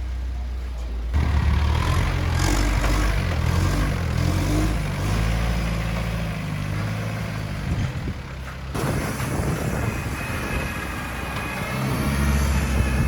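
Truck engine running steadily, its pitch and level stepping up about a second in and shifting again near the nine-second mark.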